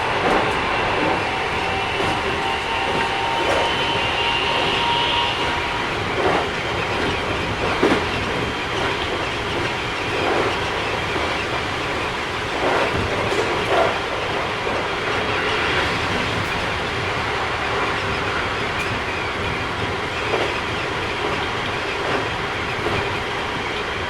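Running sound inside a Keikyu 1000 series train with Mitsubishi IGBT inverter drive: a high whine from the traction drive rises in pitch over the first five seconds, then holds steady over the rumble of the wheels. Occasional clacks of the wheels over rail joints come through. The uploader finds this set slightly noisier than other sets.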